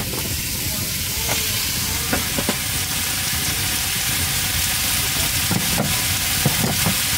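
Salmon sizzling in a frying pan, a steady hiss, with a few light clicks and scrapes of a utensil against the pan.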